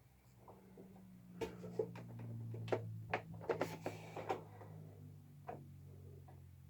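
A run of light knocks and clicks of tools and parts being handled during fret pressing, over a steady low hum.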